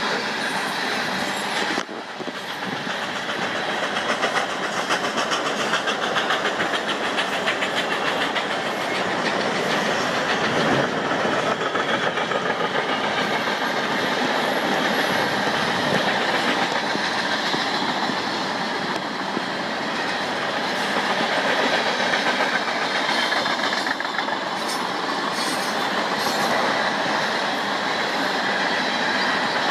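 A freight train of grain cars rolling past, wheels clacking steadily over the rail joints, with a brief dip in level about two seconds in.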